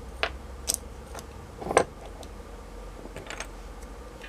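Short clicks and scrapes of hands and tools working the 18650 cells of a laptop battery pack, twisting them apart against the adhesive between them. Four or five separate sounds, the loudest a little under two seconds in.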